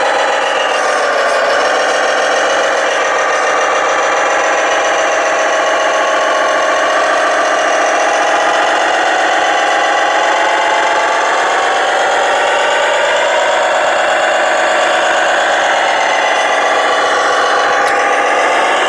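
Electric motors and gearboxes of radio-controlled model trucks whining steadily, the pitch wavering slightly with the throttle.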